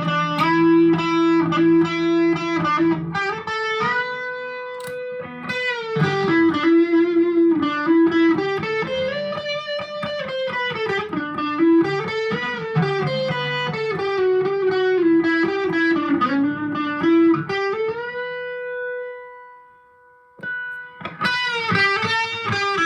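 Squier Classic Custom Telecaster electric guitar played through a Vox AV15 valve amp: a lead line of single notes with string bends. About eighteen seconds in, a note is held and fades away, and the playing starts again about two seconds later.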